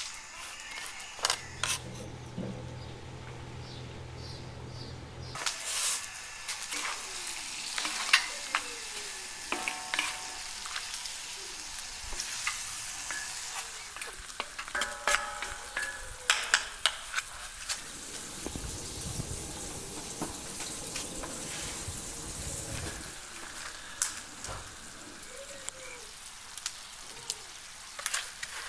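Food frying in a pan, with a steady sizzle and crackle and many sharp clicks, as of a utensil stirring and scraping. A low hum is heard for a few seconds near the start.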